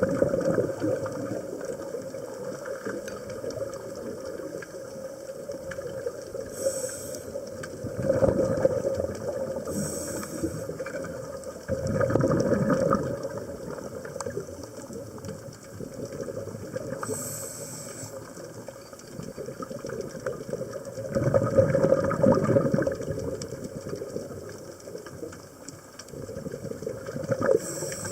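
A scuba diver breathing through a regulator underwater: a short hiss on each inhalation, then a louder burst of exhaled bubbles, repeating every several seconds over a steady low hum.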